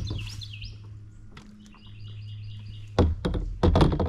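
Birds singing with quick repeated chirping notes. About three seconds in there is a short cluster of loud hard knocks and clatter, the loudest sound.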